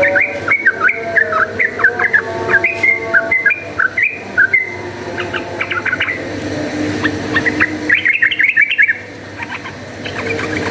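Yellow-vented bulbul singing in quick bubbly runs of short whistled chirps, with a lull in the middle and another fast burst near the end: the rapid, agitated song used to provoke bulbuls into fighting.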